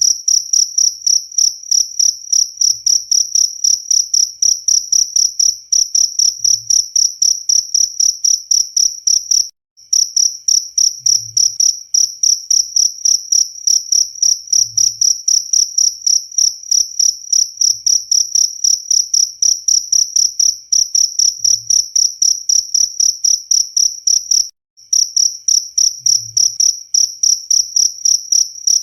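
Cricket chirping in a fast, even, high-pitched pulse, about four chirps a second. It stops briefly twice, then resumes.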